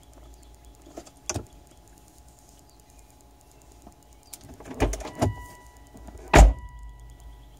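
Clicks and knocks inside a Volvo car, with one heavy thump about six seconds in. From about five seconds on a steady electronic tone sounds, amid the lights switching on and off by themselves, which the owner suspects is a parasitic electrical draw.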